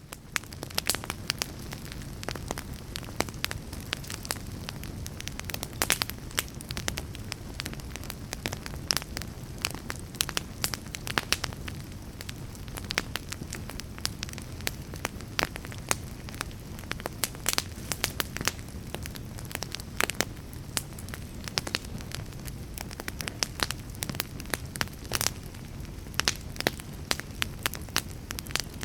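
Fire crackling: a steady low rumble of burning with frequent sharp pops and snaps scattered irregularly throughout.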